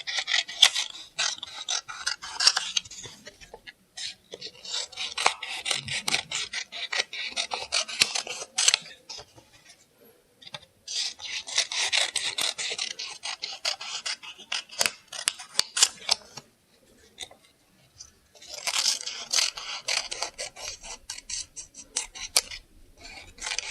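Scissors cutting through stacked sheets of colour paper: runs of quick crisp snips and rasping cuts, in four spells with short pauses between them.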